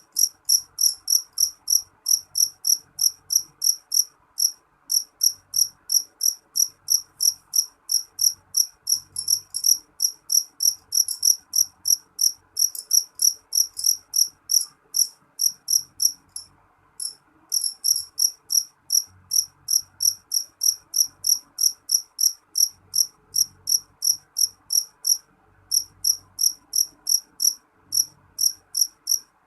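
A cricket chirping steadily: short, high-pitched chirps repeated about three times a second, with a few brief pauses.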